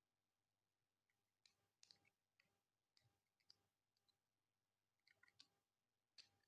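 Faint, scattered small clicks of snap-fit plastic and diecast model-kit parts being handled and pressed together, otherwise near silence.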